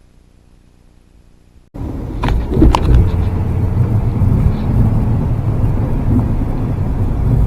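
A snow plow truck running, a loud low rumble that starts abruptly about two seconds in after a faint hum, with a few knocks and clatters just after it starts.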